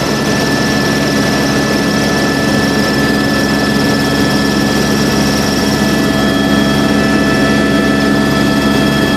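Helicopter in flight, heard from inside the cabin: a steady, dense rotor and engine rumble with a thin, high turbine whine held at an even pitch.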